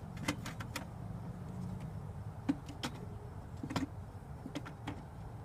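Wooden beehive frames being handled and set into a hive box: a series of short, sharp clicks and knocks, about eight in all, over a steady low hum.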